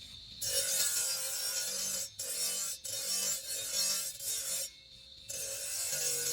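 Hand filing of a marble carving: long scraping strokes with brief pauses between them.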